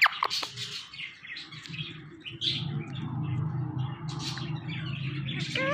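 Pet ringneck parrot calling: a few quick falling whistles at the start, then scattered short chirps, and a rising-then-falling call near the end, over a steady low hum.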